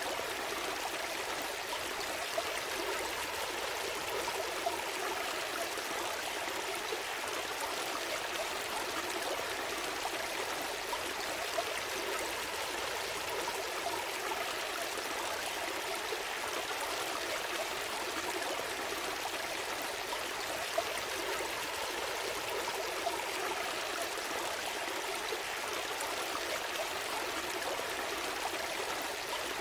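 A gentle stream flowing and trickling steadily, a continuous even rush of water.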